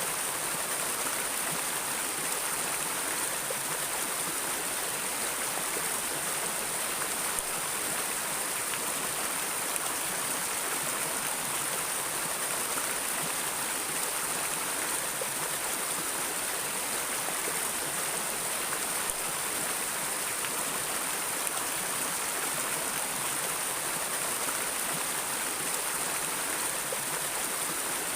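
Stream of water flowing steadily over rocks, a constant even rush with no changes.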